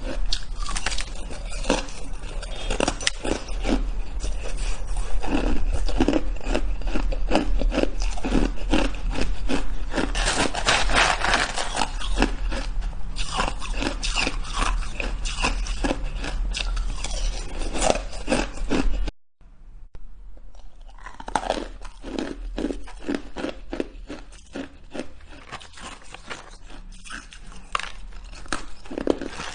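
A person biting and chewing shaved ice: rapid, dense crunching. About nineteen seconds in it cuts out for a moment, then the crunching resumes a little quieter.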